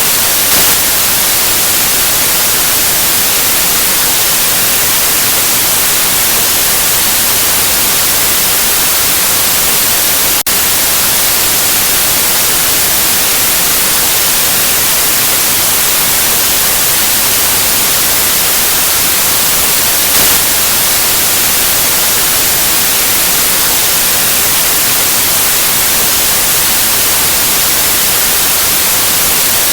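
Continuous white noise: a loud, steady hiss with no tone or rhythm, brightest in the treble, with a momentary dropout about ten seconds in.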